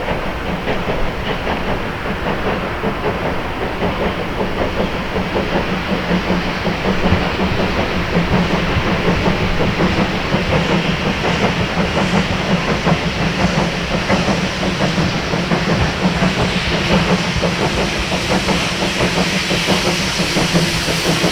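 Train hauled by the Pt47-65 steam locomotive running along the track, its wheels clattering steadily over the rails, with steam hissing that grows stronger in the second half.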